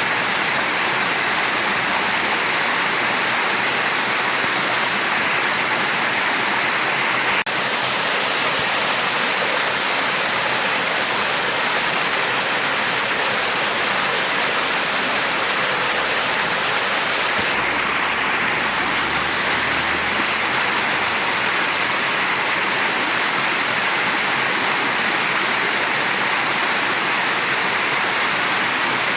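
Mountain stream rushing steadily, an even, hissy water noise heaviest in the high register, with one momentary dip about seven seconds in.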